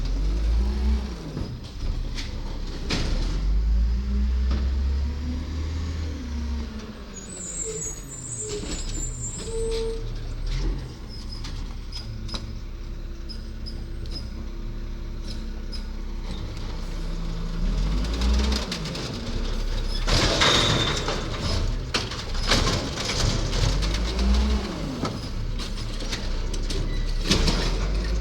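Garbage truck's diesel engine revving up and dropping back several times. About twenty seconds in come short bursts of hiss and clatter.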